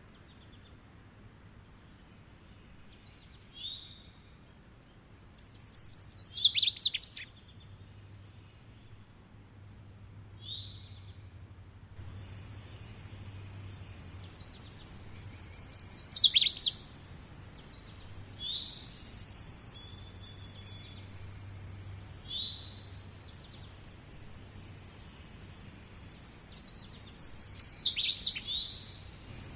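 A songbird singing three bouts of fast trilled song, each about two seconds long and falling in pitch, roughly ten seconds apart, with short single call notes between them. A faint low hum runs underneath.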